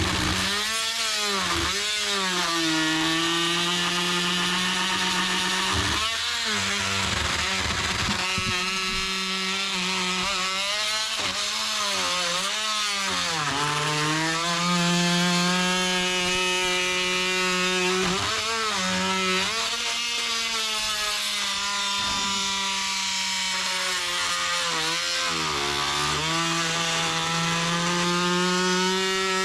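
Oscillating multi-tool plunge-cutting into dry 2x lumber: a steady, high motor whine that sags in pitch again and again as the blade bogs under load, then recovers.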